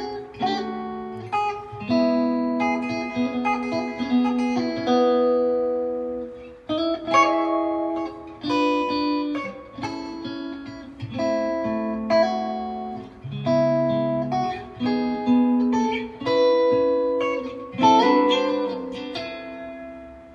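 Guitar played with plucked notes in short melodic phrases, each note ringing and dying away; the last phrase fades out near the end.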